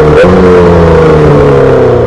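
2008 Yamaha R6's inline-four engine through a full SC-Project exhaust, revs falling off the throttle. There is a brief break and a small jump in pitch about a quarter second in, then the engine note sinks steadily.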